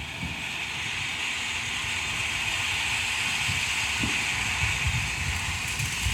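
A steady hiss that builds in at the start and holds, with wind rumbling on the microphone.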